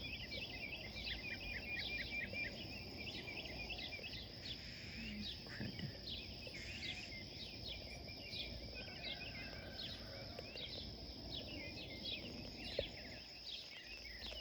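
Several birds chirping and calling in quick, short repeated notes, over a steady high-pitched whine and a low background rumble.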